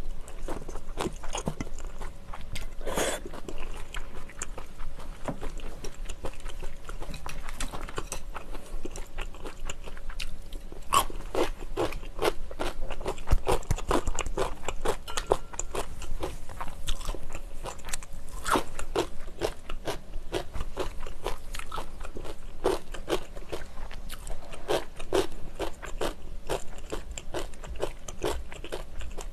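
Close-miked chewing and biting sounds of a person eating spicy instant ramen: a steady run of short, sharp mouth clicks and smacks.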